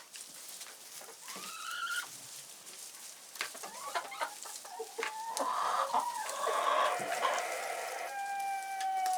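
Chickens clucking and calling, growing louder over the second half, with a long, drawn-out call near the end and a few sharp clicks in between.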